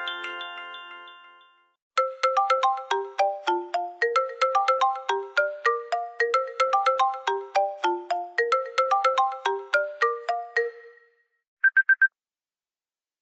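iPhone ringtones. The end of one tone fades out, then a ringtone melody of rapid, short, bright notes plays for about nine seconds. Near the end come four quick identical high beeps.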